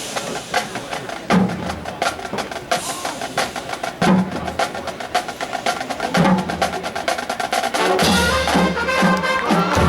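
Marching band drumline playing a fast, busy passage of rapid drum and rim strikes, with the full band's horns coming in on sustained chords about eight seconds in.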